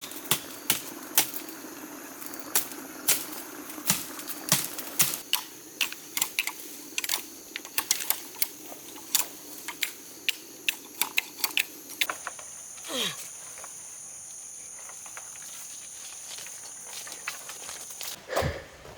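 Irregular sharp clicks and knocks, a few a second, over a steady low hum for about twelve seconds. Then the clicks stop and a steady high-pitched whine carries on, with one short falling tone just after the change.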